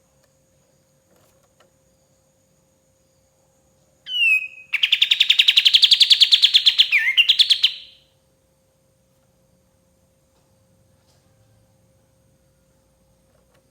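Kapas tembak bulbul singing one phrase: a short falling whistle, then a fast trill of about ten notes a second for roughly three seconds, closing with a quick down-and-up slur.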